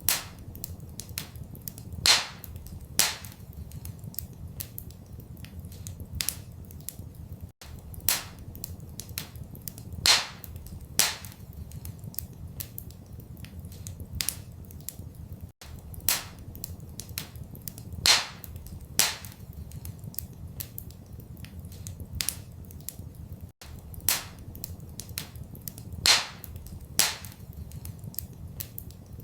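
Wood fire crackling in a fireplace, with many small ticks and a few sharp pops over a steady low rumble. The same run of pops comes round about every eight seconds, a looped fire recording.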